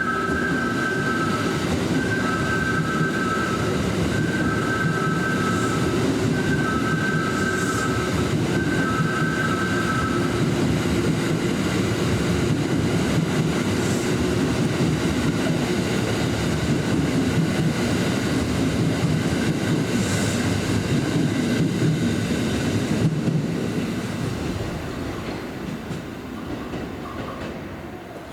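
Kintetsu electric train passing through the station without stopping, with wheels clattering over rail joints. The sound holds steady, then fades away over the last few seconds. A two-tone electronic warning signal pulses about every two seconds for the first ten seconds.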